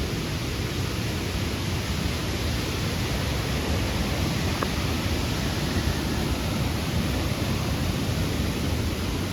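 Steady rushing noise, heaviest in the low end, with a single faint click about halfway through.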